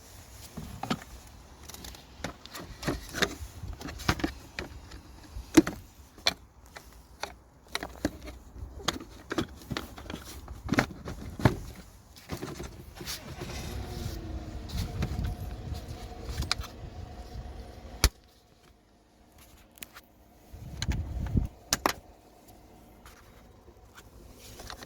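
Plastic air filter box lid being refitted by hand: a string of clicks, knocks and rattles as the cover is seated and its clips snapped shut. A steady hum runs for several seconds past the middle and cuts off suddenly.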